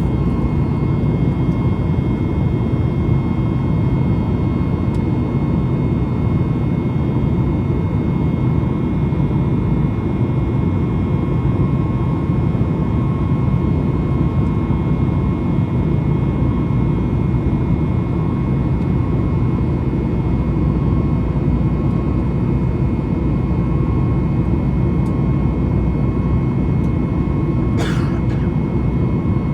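Steady roar of a Boeing 737-8 MAX's CFM LEAP-1B jet engines heard inside the cabin in flight, with a faint steady high tone above the rumble. A single short click near the end.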